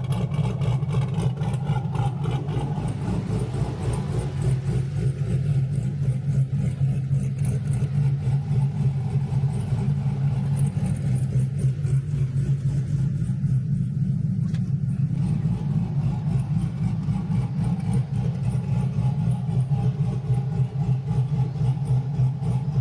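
Turbocharged, cammed LS V8 engine idling steadily, with an even pulsing exhaust beat.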